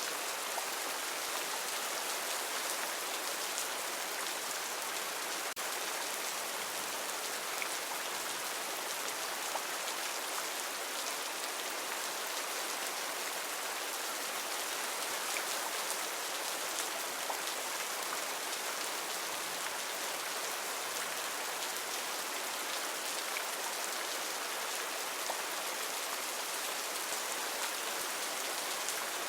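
Heavy rain falling steadily, a dense even hiss made up of countless drops striking leaves and ground.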